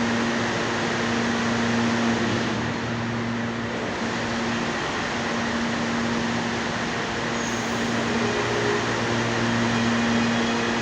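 CPTM electric commuter train at a station, giving a steady hum over a constant rushing noise, with a faint high whine starting near the end.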